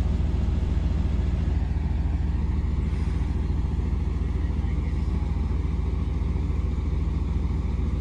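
Car engine idling steadily, a constant low rumble.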